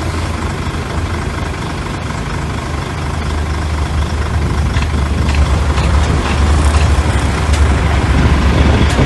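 Heavy diesel engine of earthmoving machinery running steadily, growing louder from about three seconds in, with a few sharp knocks in the second half.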